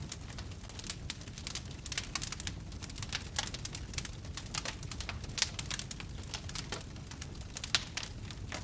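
Wood campfire crackling: many irregular sharp pops and snaps over a steady low rumble of the burning fire.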